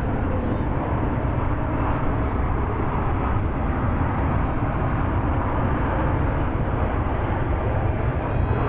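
Steady jet engine noise from a Boeing 747-400 freighter: an even rush, heaviest in the deep bass.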